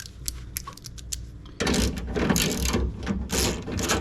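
Light clicks and taps, then about a second and a half in the power window motor starts driving the new window regulator, giving a loud, continuous mechanical grinding whir. The regulator runs noisily, which the owner suspects comes from a screw pressing on one of its cable pulleys.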